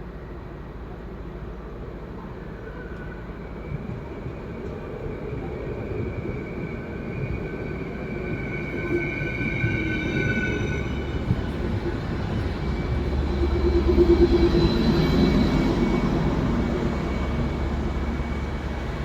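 Train running on rails: a steady low rumble that grows louder toward about two-thirds of the way in, then eases slightly, with a high-pitched whine for a few seconds in the middle.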